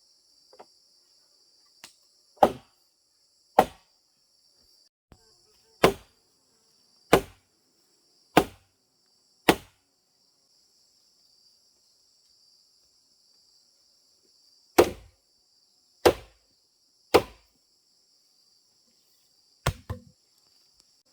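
Heavy blows of a tool on wood, roughly one a second: six strikes, a pause of about five seconds, then five more, the last two close together. Insects shrill steadily in the background throughout.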